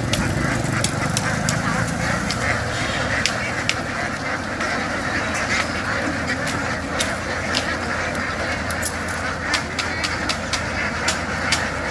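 A flock of ducks quacking and chattering continuously, with many sharp clicks and taps scattered through.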